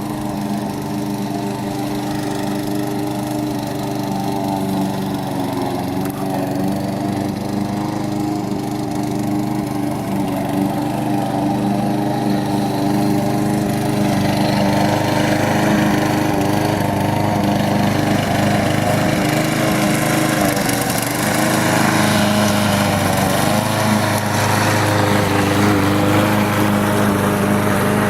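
Small petrol engine running steadily, its sound growing gradually louder through the second half.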